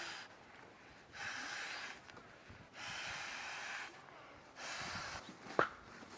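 A person breathing heavily close to the microphone, in loud rushes about every second and a half. Near the end come two sharp taps.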